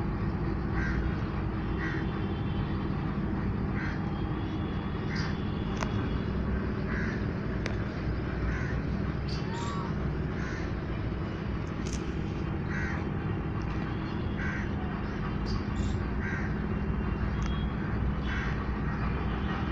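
Birds calling: a short call repeated about once a second, with scattered brief high chirps, over a steady low background rumble.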